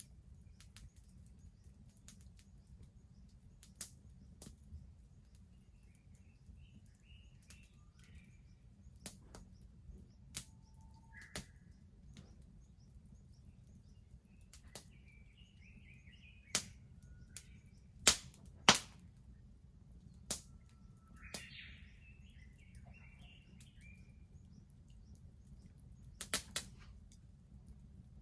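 Wood fire crackling: scattered sharp pops, the two loudest about two-thirds of the way through, over a low steady rumble. Birds chirp a few times in the background.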